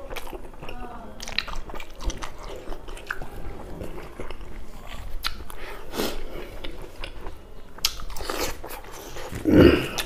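Close-miked mouth sounds of a man eating rice and gravy with his hand: wet chewing, lip-smacking and scattered clicks, with a louder mouthful sound about nine and a half seconds in.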